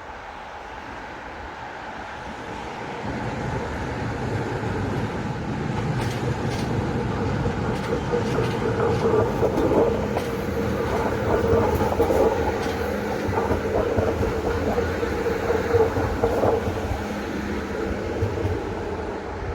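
ČD class 640 RegioPanter electric multiple unit moving through the station, getting louder from about three seconds in, with a steady mid-pitched tone over a low rumble and clicks of wheels over the rails in the middle.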